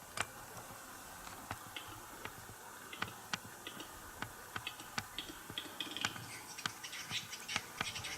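Western capercaillie displaying at the lek: a series of dry clicks that come faster and faster, mixed with short scratchy hisses toward the end.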